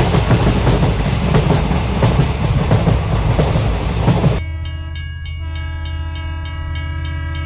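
A moving train: a loud, noisy rumble over a low drone. About four seconds in it changes abruptly to a steady held chord over an even ticking.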